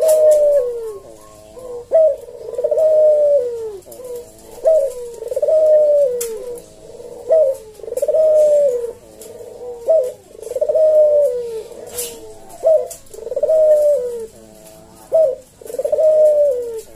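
Barbary dove (puter) cooing in display: a short sharp note followed by a longer, falling coo, repeated in a steady cycle about every two and a half seconds.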